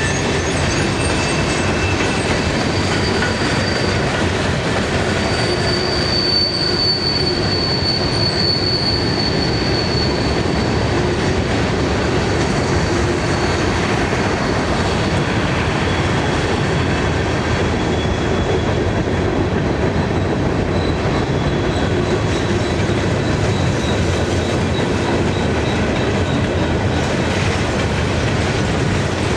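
Norfolk Southern freight cars rolling steadily past with a continuous rumble of wheels on rail. A thin, high wheel squeal rises out of it from about three seconds in to about ten seconds, with a fainter squeal in the middle.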